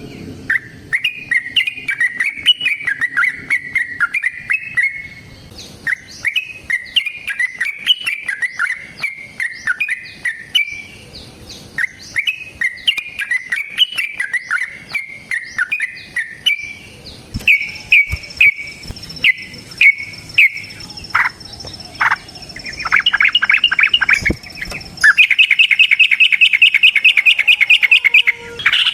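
Yellow-vented bulbul (trucukan) singing long runs of rapid, bubbly chirping phrases. The notes thin out to separate chirps past the middle, then turn into a fast, continuous trill about 25 seconds in. This is the long rolling 'ropel' song of a bird in fighting form, used to provoke other birds into answering.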